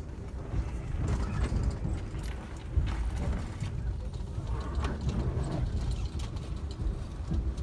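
An Amtrak passenger coach rolling over the track, heard from inside the car: a steady low rumble broken by irregular clicks and clanks of the wheels over rail joints and switches.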